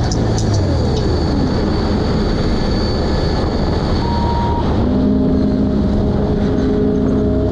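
Pit bike's single-cylinder engine running steadily while riding.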